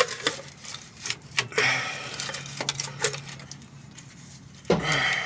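Irregular metallic clicks, clinks and knocks of a starter motor and hand tools being worked into place under a pickup truck, with a short scraping rattle about two seconds in.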